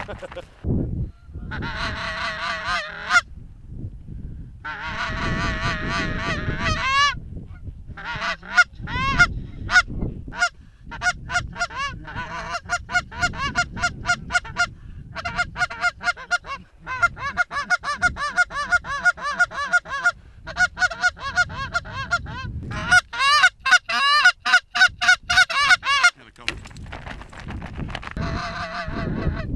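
Goose calling: loud honks and rapid clucks in fast runs, with a few drawn-out wavering moans, sounded close on hand-blown goose calls to work an incoming flock of Canada geese.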